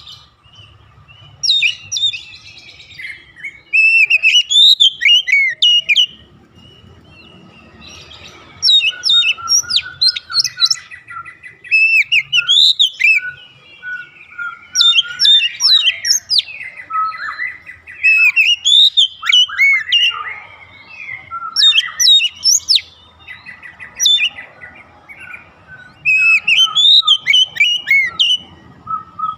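Oriental magpie-robin (kacer) singing: bursts of quick, varied whistles and chirps, each a second or two long, separated by short pauses.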